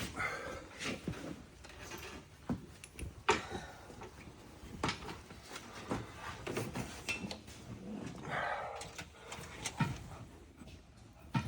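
Irregular clicks and metallic knocks of hand tools (sockets, extension, wrench) handled against metal parts while working on a pickup's engine, with short pauses between.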